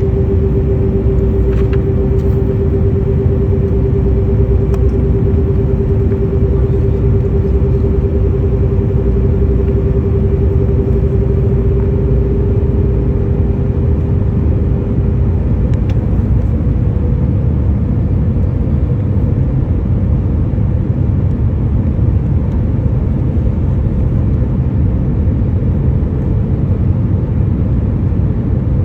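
Boeing 737 cabin noise: the engines give a steady, loud low rumble, with a steady hum that fades out about halfway through.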